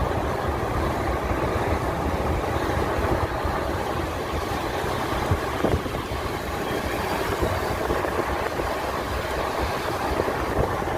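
Steady low rumble of a moving vehicle with no clear changes, as heard from on board.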